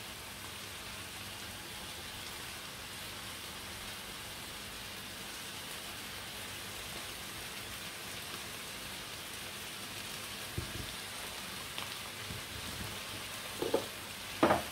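Chunks of chicken breast sizzling steadily in a frying pan over a gas flame as they sear, with a few light knocks near the end.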